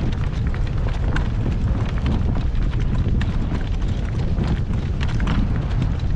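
Strong wind buffeting the microphone in a steady low rumble, with scattered light clicks and knocks from a horse trotting in harness.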